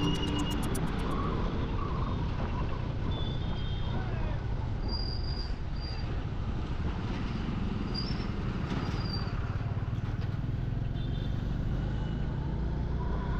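Steady motorcycle riding noise on a highway: engine and wind rush with surrounding traffic. A few short high-pitched beeps come in around the middle.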